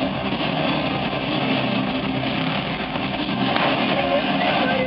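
Loud, steady din of stunt-car engines running in an indoor arena, heard through a small camera's microphone.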